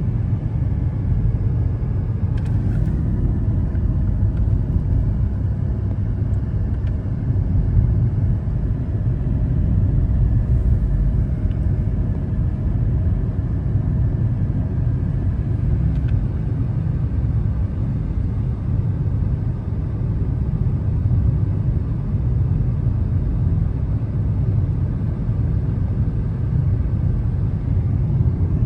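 Steady rumble of a car driving on a mountain road: engine and tyre noise.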